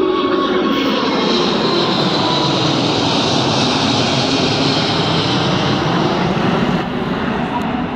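Four-engine Emirates Airbus A380 departing, its jet engines giving a loud, steady roar with a faint high whine, the level dropping off near the end.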